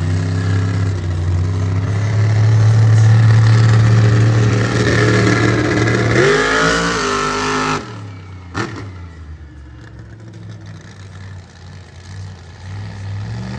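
Rage monster truck's engine running hard, then revving up in a rising pitch about six seconds in before cutting off abruptly near eight seconds. A single sharp crack follows just after, then a lower, quieter rumble.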